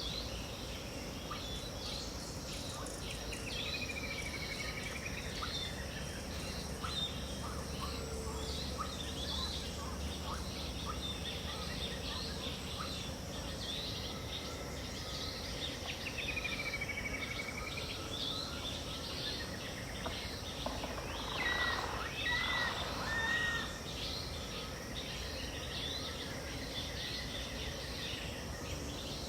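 Dawn chorus of many wild birds chirping and calling over a steady high insect drone. Twice a long whistle swoops down and back up, and from about 21 to 23 seconds in a louder run of lower calls stands out.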